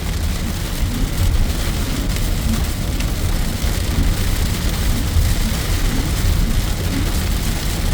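Torrential rain falling on a moving car, over a steady low rumble of road noise.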